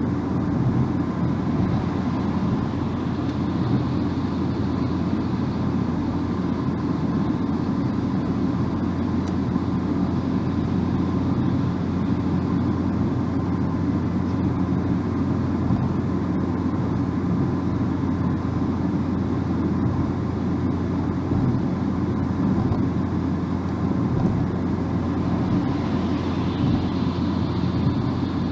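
Steady road noise of a car driving: a low rumble of tyres and engine with no breaks or sudden sounds.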